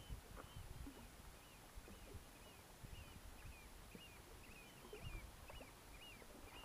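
Faint bird calls: short chirps repeated every half second or so, over a low rumble with scattered soft knocks from the canoe and water.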